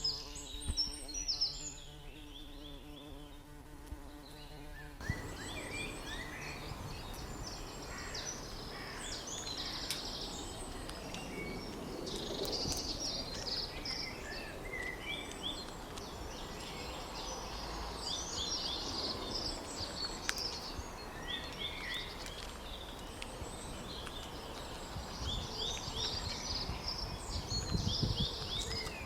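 A chorus of small birds chirping and twittering in many short, quick calls over a steady background hiss. About five seconds in, the background changes: a low steady hum drops out and the chirping grows denser.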